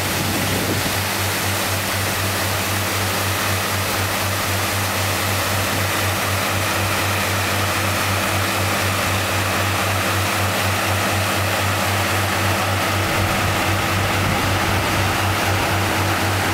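Steady rushing of floodwater running into the canal, under a constant low motor hum.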